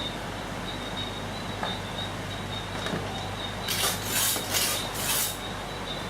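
Short scraping, rustling noises from hands working on the switch wiring, clustered near the end, over a steady low electrical hum with a faint high whine; a couple of faint clicks come earlier.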